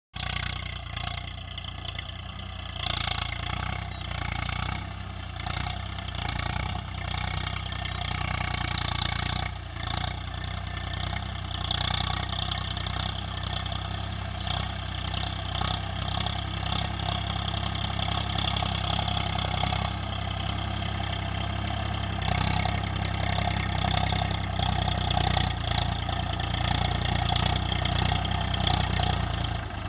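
Swaraj 742 XT tractor's diesel engine running steadily, with a brief dip about nine and a half seconds in and slightly louder from about two-thirds of the way through.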